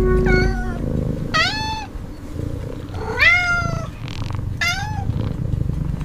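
A cat meowing about four times, each meow rising then falling in pitch, over a low steady purr.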